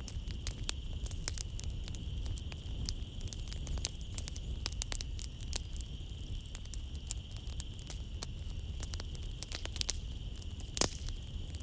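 Wood fire crackling in a fireplace: irregular snaps and pops over a low rumble, with one louder pop near the end. A steady high-pitched trill of night insects runs underneath.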